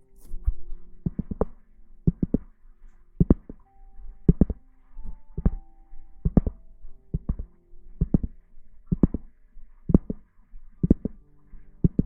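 Heartbeat sound: low, paired thumps (lub-dub) repeating steadily about once a second.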